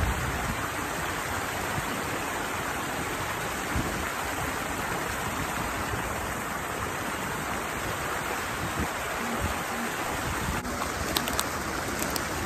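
Steady rush of water pouring down a small cascade into a flowing stream, with a few light clicks near the end.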